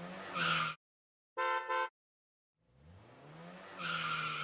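A vehicle engine revving up twice, its pitch rising each time, with two short horn beeps in the quiet gap between the revs.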